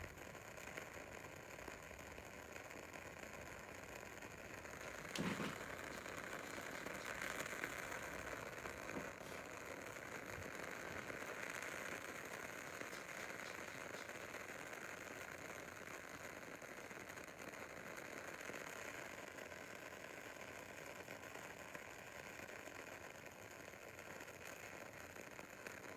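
Triple-wicked soy candle's wicks crackling faintly as it burns, with scattered small irregular pops over a soft hiss and one louder pop about five seconds in.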